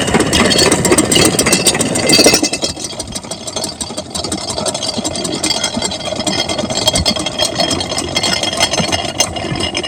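Diesel engine of an irrigation water pump set running steadily. It is loud for the first two seconds or so, then somewhat quieter.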